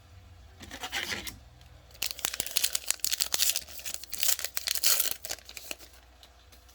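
A trading-card pack's wrapper being torn open and crinkled: a short rip about a second in, then several seconds of dense crackling.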